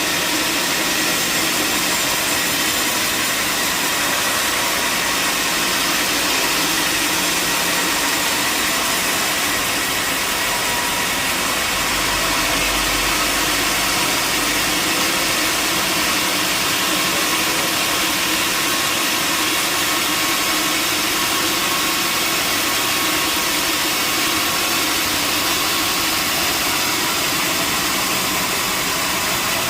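Sawmill machinery running: a steady, unbroken mechanical noise with no pauses.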